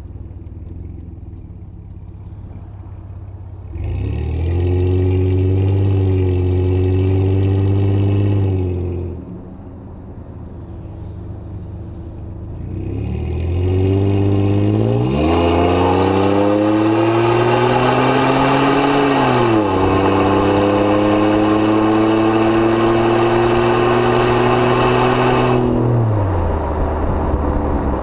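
2005 Jeep Grand Cherokee engine running through a Thrush welded muffler. It idles, rises to a steady higher note for about five seconds and drops back, then accelerates with two upshifts, each a sudden drop in pitch. It then holds a steady note and drops back near the end.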